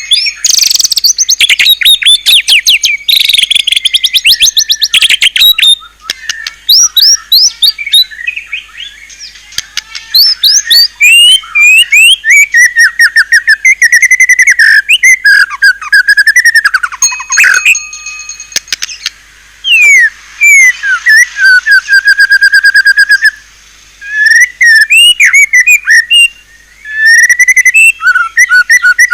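White-rumped shama singing a loud, fast, varied song of whistles, rapid trills and chattering phrases, with a few brief pauses between bursts.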